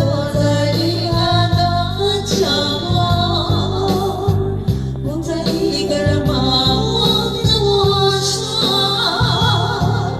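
A song with a singing voice over instrumental accompaniment, the sung melody running on throughout.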